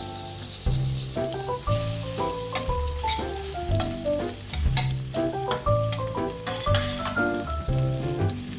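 Food sizzling as it fries, with sharp crackles, under background music that has a melody and bass line.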